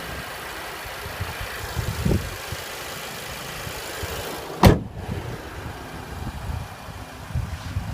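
Audi A3's 1.8-litre TFSI turbocharged four-cylinder running at idle, a steady low rumble, with a single sharp knock, like a car door shutting, a little past halfway through.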